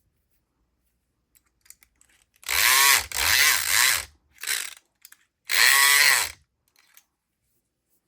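Southord E500XT electric lock pick gun buzzing in three bursts, two of about a second with a short one between, its pitch rising and falling as each burst starts and stops. The vibrating needle is raking the pins of a lock, with faint clicks of handling between bursts.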